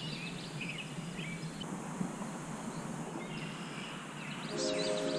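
Small birds chirping in quick, repeated short notes over a steady hiss of outdoor background noise. Near the end a chord of several steady held tones comes in.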